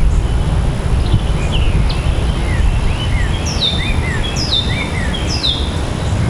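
Birds calling over a steady low rumble: scattered short chirps, then four clear downward-slurred whistles about a second apart in the second half.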